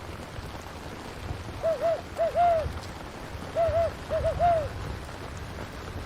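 Owl hooting twice, each call a quick run of short hoots, over steady rain.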